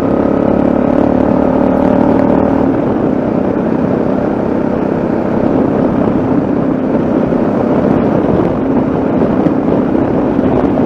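Yamaha XT660Z Ténéré's single-cylinder engine running steadily on the move, with wind and road noise. The engine note is clearest for the first few seconds, then wind noise takes over.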